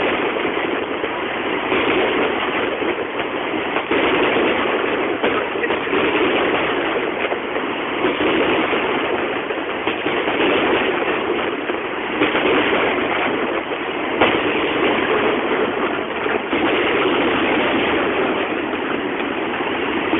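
Steady rain noise picked up by a mobile phone's narrow-band microphone, with a few faint bangs of firework shells bursting.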